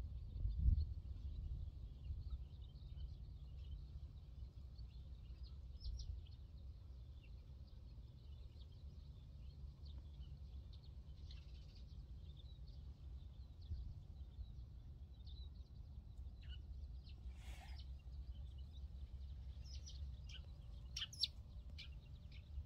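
Faint outdoor ambience: scattered short bird chirps over a steady low rumble, with a low thump about half a second in.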